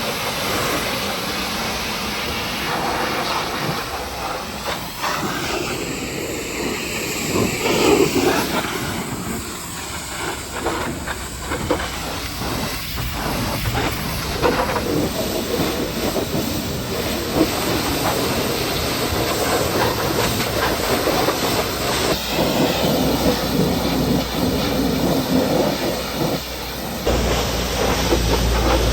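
High-pressure water spray hissing and rushing against a truck's body, the spray shifting as it moves over the surface. A low steady hum joins near the end.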